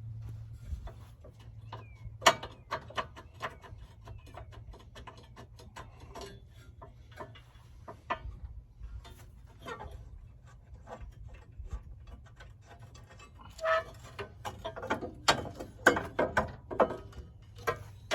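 Hand tools working metal fasteners and parts: irregular clicks and clinks as bolts and a bracket are taken off, with a run of louder clinks in the last few seconds.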